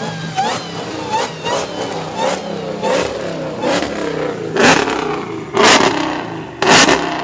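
Car engine being revved hard, over and over, in short rising blips. In the second half, loud sharp bursts come about once a second.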